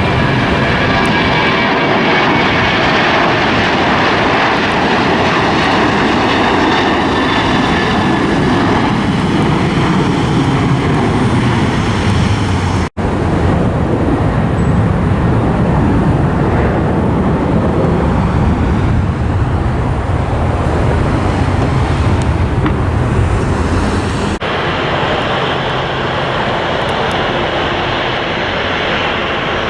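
Airliner engine noise at close range, loud and steady, with a high whine in the first few seconds. The sound drops out abruptly about 13 seconds in and changes character suddenly near 24 seconds, at cuts between separate aircraft clips.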